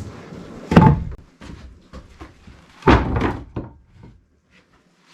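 Two heavy wooden thuds about two seconds apart, each followed by lighter knocks, as cut pieces of 2x6 lumber are handled and set down.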